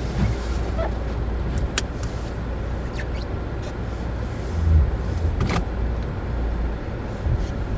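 Car driving, a steady low rumble of engine and road noise, with a few sharp clicks.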